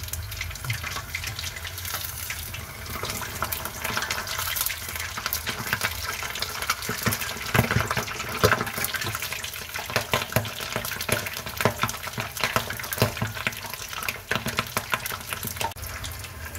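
Pork knuckle frying in hot oil: a steady sizzle studded with many sharp pops and crackles, busiest around the middle.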